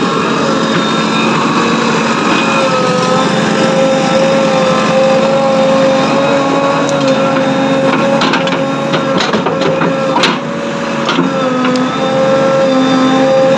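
Engine of heavy machinery running steadily with a constant hum, with several sharp metallic clanks partway through.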